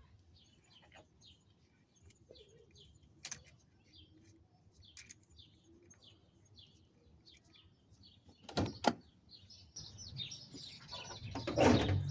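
A bird chirping over and over in short, high calls. About eight and a half seconds in come two sharp knocks, then a louder stretch of noise and clatter near the end.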